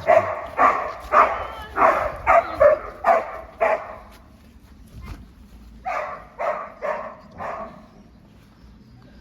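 A dog barking repeatedly, about two barks a second, stopping about four seconds in, then four more barks before it falls quiet.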